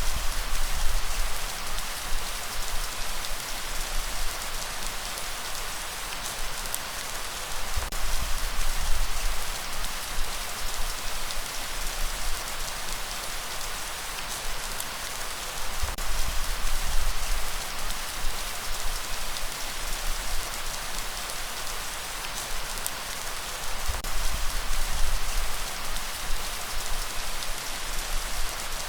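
Steady light rain falling, an even hiss of drops. A low rumble swells up and fades about every eight seconds.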